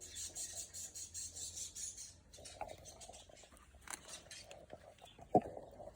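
Pet canaries rustling and scratching in their cage, with scattered small clicks and one sharp tap about five and a half seconds in.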